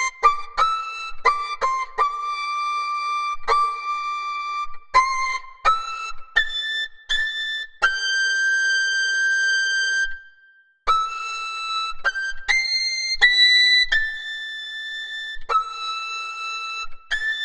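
A simple tune played one note at a time on a high-pitched whistle-like pipe, with short breaks between the notes. One note is held for about two seconds near the middle, and the tune stops briefly before going on.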